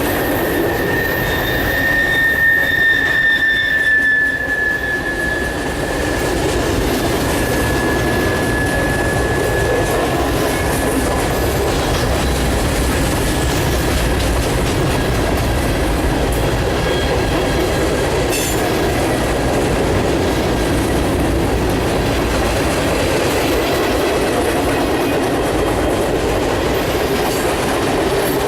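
Freight cars of a mixed freight train rolling past on the rails, a steady rumble and clatter of wheels. A high wheel squeal sounds over it in the first several seconds and fades out about ten seconds in.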